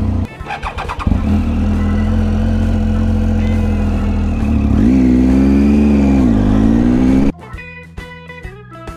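Triumph Tiger motorcycle's three-cylinder engine running under way. It eases off briefly near the start, then pulls steadily, and about five seconds in its pitch rises and wavers up and down with the throttle. Near the end the engine sound cuts off abruptly and guitar music takes over.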